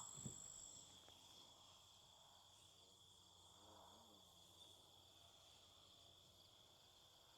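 Near silence outdoors, with a faint, steady, high-pitched insect trill from crickets throughout. About four seconds in, a faint hum briefly wavers up and down in pitch.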